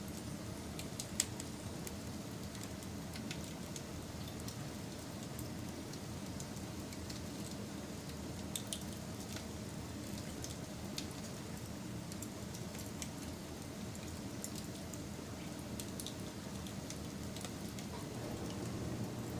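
Campfire burning: a steady low rush of flame with scattered sharp crackles and pops of burning wood, one louder pop about a second in.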